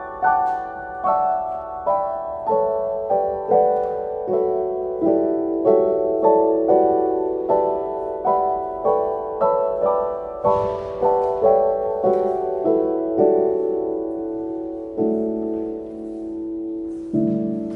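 Background music: a solo piano melody, notes struck about twice a second and left to ring, slowing and holding longer notes near the end.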